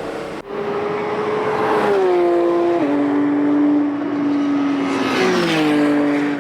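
Race car engine running at high revs, its note dropping in sudden steps twice, about three and five seconds in, as it shifts gear.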